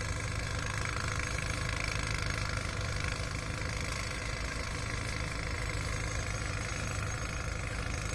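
An engine idling steadily, with an even hum that does not change.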